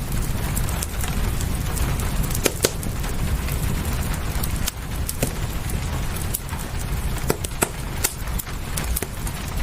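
Wood fire crackling, with sharp irregular pops over a steady hiss of rain and a low rumble.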